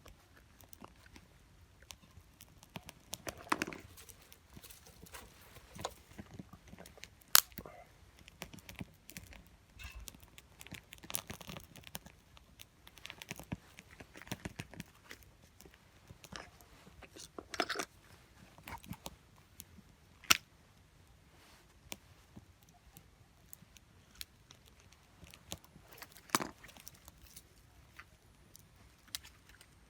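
Small wood fire crackling in a compact steel fire pit, with scattered irregular pops and a few louder sharp snaps.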